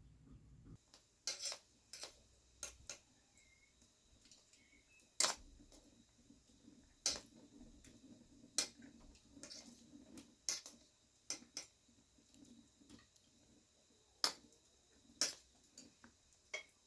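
Irregular sharp clinks of cutlery against dishes during a meal, about one every second with gaps, some louder than others.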